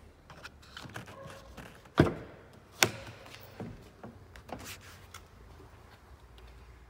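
Alfa Romeo Giulietta's rear door being opened by its hidden handle: two sharp latch clunks a little under a second apart, among lighter clicks and taps.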